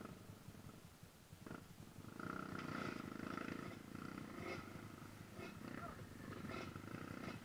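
Dirt bike engine running at low revs on a rocky climb: a low, pulsing rumble that dips at first and picks up again about two seconds in, with a few light knocks.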